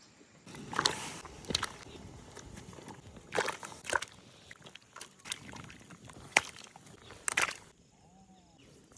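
Irregular sharp knocks and clatters, about six spread over several seconds, over a low steady outdoor background, with a faint short call near the end.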